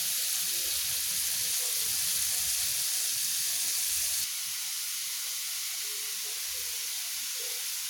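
Spices sizzling steadily as they are sautéed in hot oil in a pan, being fried until fragrant. The sizzle turns a little quieter about four seconds in.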